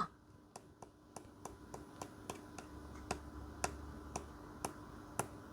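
Faint, regular clicking, about three sharp clicks a second, over a low steady hum.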